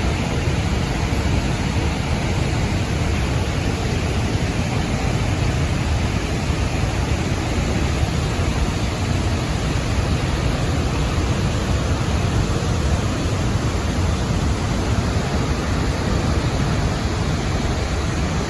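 Steady, loud rush of a large waterfall's falling water, heaviest in the low end, unchanging throughout.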